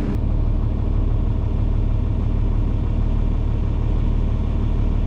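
John Deere 4430 tractor's six-cylinder diesel engine idling steadily, a low even hum.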